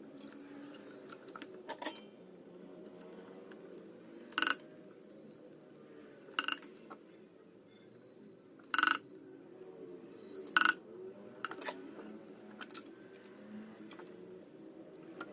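Short metallic clicks and clinks, about seven at irregular intervals, from tools and small metal parts being handled while transistors are fitted back onto an amplifier board, over a steady low background noise.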